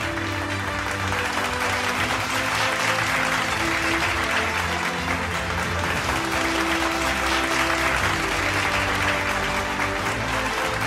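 Applause over background music with held notes.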